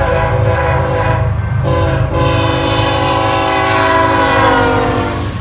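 Diesel locomotive air horn sounding a chord of several notes: a blast, a short break, a brief toot, then a long blast whose pitch sags slightly toward the end, over the low rumble of the passing train.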